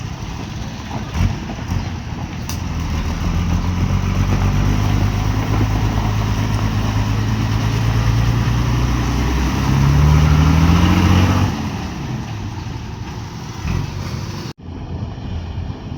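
Heavy sugarcane hauler truck's engine running close by, growing louder, then revving with a rising pitch about ten seconds in before dropping away. A sudden break in the sound comes near the end.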